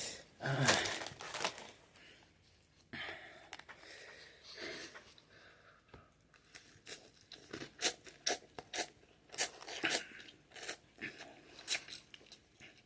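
Close-miked eating of Buldak spicy ramen noodles: chewing with irregular sharp wet clicks and crunches, thickest in the second half. There is a short vocal sound just after the start.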